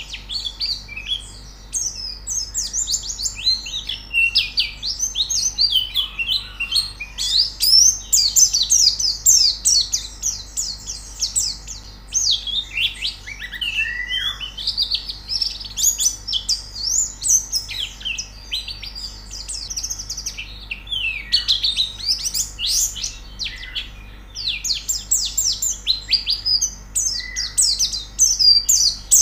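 White-eyes (pleci) singing: fast, high twittering chirps in continuous runs with short pauses, over a faint steady low hum.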